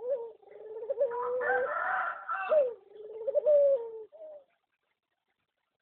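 A pet bird calling: one long, wavering call with a rougher, harsher stretch in the middle, breaking off after about four seconds.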